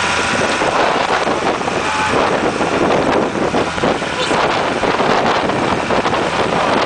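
Steady engine drone of a moving vehicle with wind on the microphone, and voices talking over it.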